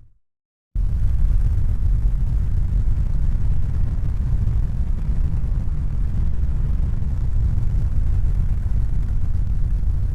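Steady low rumbling noise with no distinct events in it. It dies away right at the start, leaves a moment of total silence, then cuts back in abruptly and runs on evenly.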